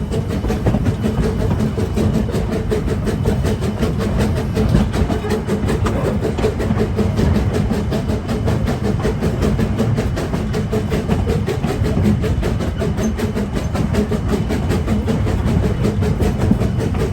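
Edaville Railroad's two-foot-gauge train running along the track: a steady rolling rumble of wheels on rails.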